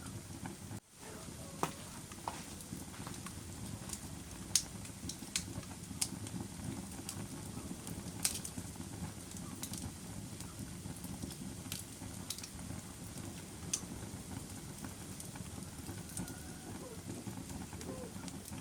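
Wood fire burning in a fireplace: a steady low rumble of flames with sharp crackles and pops scattered irregularly throughout. The sound drops out briefly about a second in.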